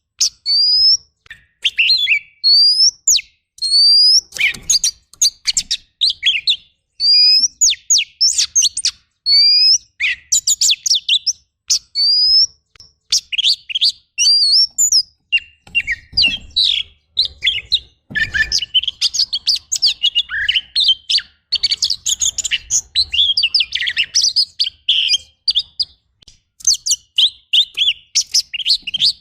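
Oriental magpie-robin singing a fast, varied song of clear rising whistles, sharp slurred notes and harsh chattering runs, broken by short pauses. The song is packed with mimicked phrases of other birds.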